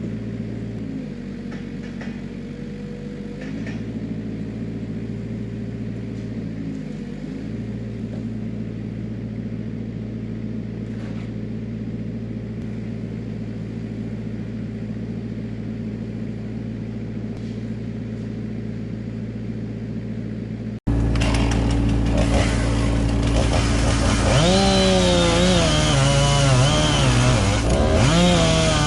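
An engine runs steadily at a low, even pitch for about twenty seconds; then, after an abrupt cut, a chainsaw runs much louder, its pitch rising and falling as it cuts into a tree trunk under load.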